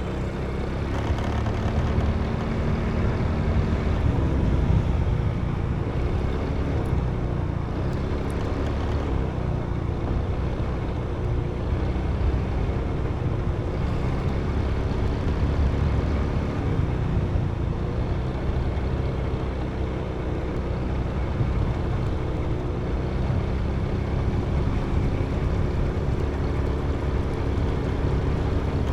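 Motorbike engine running while riding along, with steady wind and road rumble. The engine note rises and falls a few times with the throttle.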